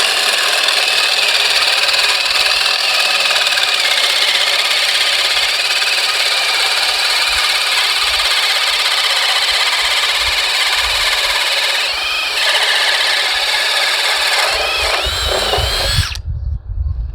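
Ridgid Octane 18V hammer drill driver on high speed, boring a 1-inch self-feeding auger bit through pressure-treated 4x6 timber: a loud, steady motor whine with the bit chewing through wood. The pitch dips briefly about twelve seconds in as the bit loads up. The drill stops abruptly about sixteen seconds in, followed by a few low thumps.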